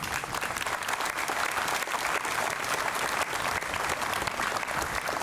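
Crowd applauding, a dense steady clapping that swells in just at the start, in recognition of veterans who have raised their hands.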